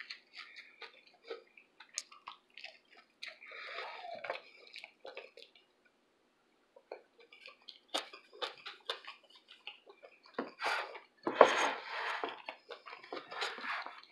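Close-up chewing of a veggie chicken patty and egg sandwich: scattered wet mouth clicks and smacks, with a brief pause a little past halfway and a louder stretch of chewing near the end.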